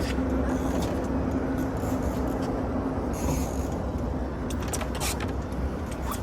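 Steady engine rumble with a low hum, which fades about halfway through. A few sharp clicks come near the end.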